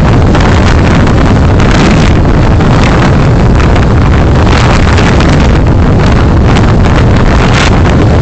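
Road and wind noise of a moving car picked up by a dashcam microphone: a loud, steady rumble with a hiss that swells and fades.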